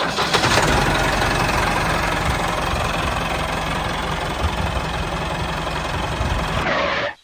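A mini tractor's small motor running steadily, with a dense rattling mechanical noise; it cuts off suddenly near the end.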